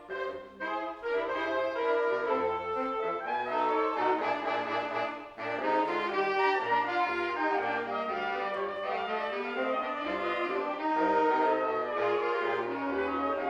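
Brass ensemble music: several brass instruments play changing notes together, with a brief drop in level about five seconds in.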